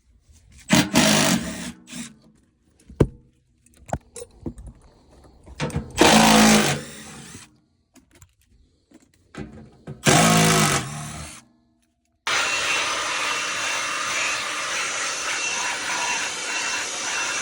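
A power drill running in three short bursts, with clicks and knocks between them. About twelve seconds in, a steady rushing hiss starts and holds.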